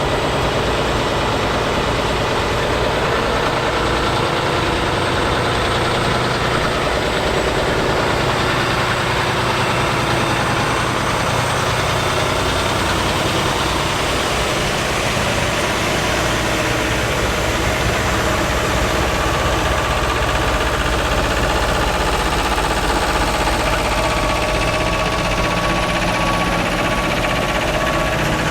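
Heavy haulage truck's diesel engine idling steadily.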